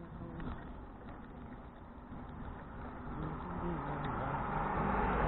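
A car approaching on the road, its engine and tyre noise growing steadily louder over the last two seconds.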